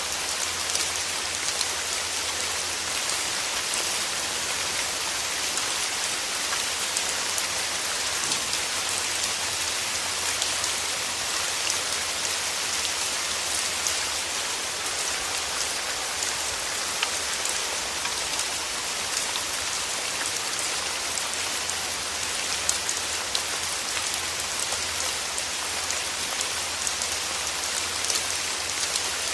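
Steady rain with many small, close drop hits over an even hiss.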